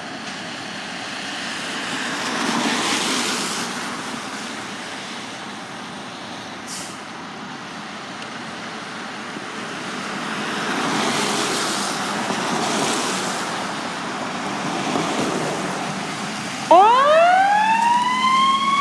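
Road traffic swells and fades as vehicles pass. Near the end an emergency vehicle's siren starts up: its pitch climbs steeply, then levels off into a loud, steady wail.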